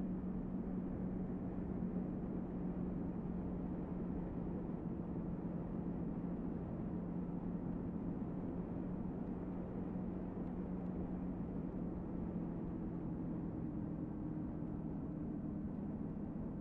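Motorcycle engine running at a steady, even pitch while riding, under steady wind and road noise.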